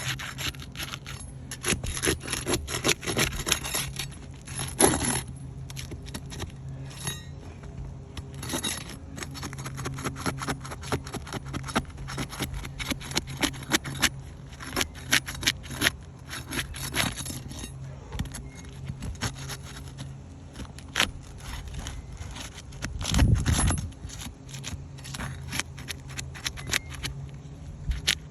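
Hands-on repair work: many sharp clicks, clinks and short scrapes of small hard parts and tools, over a steady low hum, with a louder low thump about three-quarters of the way through.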